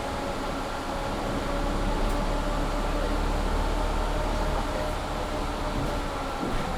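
Mercedes-Benz Citaro C2 G articulated bus running, heard from inside the passenger cabin: a deep engine rumble with steady whining tones, over the noise of the loud heater blower. The engine grows louder about two seconds in and eases back around four and a half seconds.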